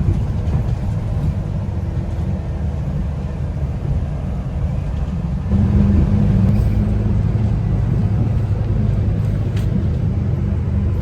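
Steady low rumble of a road vehicle heard from inside while it drives, getting louder about five and a half seconds in.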